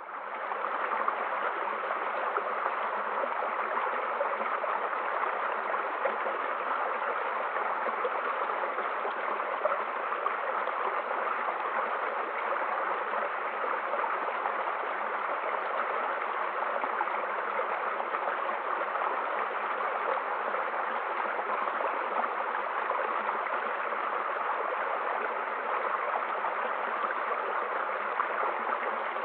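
Mountain stream rushing steadily, an even wash of running water that fades in over the first second.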